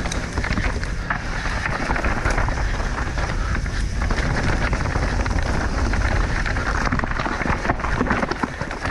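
Mountain bike being ridden down a dirt trail: tyres rolling over dirt and rock with a constant clatter of small rattles and clicks over a low rumble.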